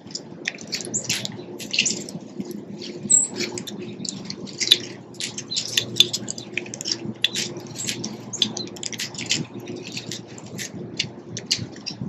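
Small backyard birds chirping at a feeder: a dense run of short, quick chips and twitters, several a second, over a low steady hum.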